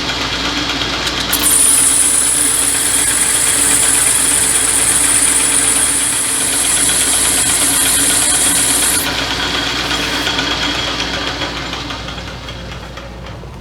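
Lathe running with a steady motor hum. From about a second and a half in until about nine seconds, a high hiss comes from the tool boring out the spinning workpiece. The machine quietens over the last few seconds.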